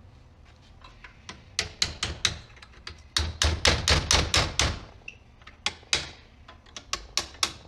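Hammer striking metal as the old steel sleeve of a VW Mk1 Caddy engine mount bushing is knocked out. The sharp, ringing blows come singly at first, then in a quick run of about five a second near the middle, then spaced out again.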